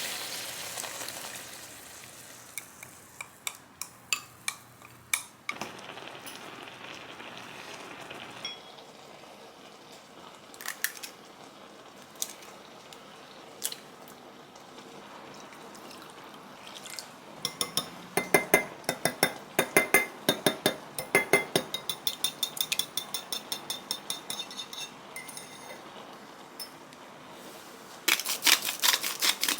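Kitchen utensils clinking against dishes and pans, first as scattered single clinks. About halfway through comes a quick run of rapid clinks lasting several seconds, and there is another short flurry near the end.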